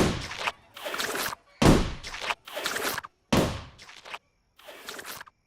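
Three heavy thuds, about a second and a half apart, with shorter scuffling noises between them.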